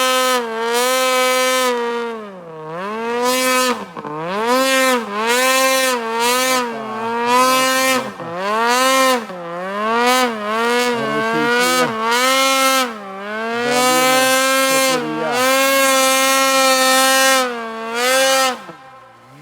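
A motor vehicle engine running hard. Its pitch holds steady, then repeatedly sags and climbs back every second or two as the throttle and load change, before it cuts off near the end.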